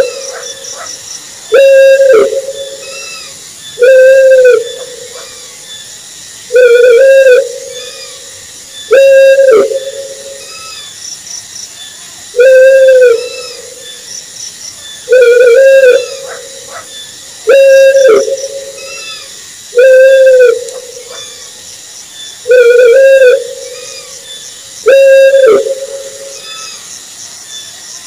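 An owl hooting over and over: a single drawn-out hoot about a second long, rising slightly and falling away, repeated about every two and a half seconds, over a faint steady hiss.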